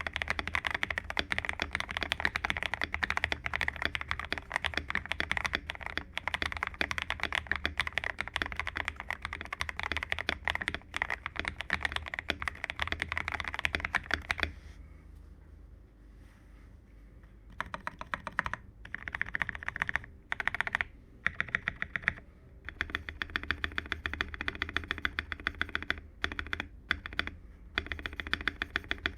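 Rapid typing on an MMD75 custom mechanical keyboard with lubed AKKO CS Radiant Red linear switches and XDA-profile keycaps. The keystrokes run continuously for about half the time, stop for a few seconds, then resume in shorter runs with brief pauses.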